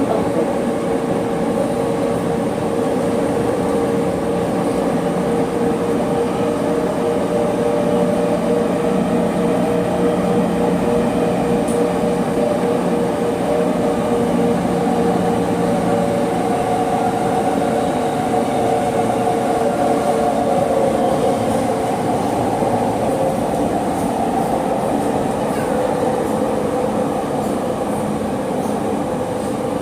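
Running noise of a JR E231 series 800-number commuter train heard from the car floor inside the carriage: continuous wheel-and-rail rumble under a steady whine from the traction motors.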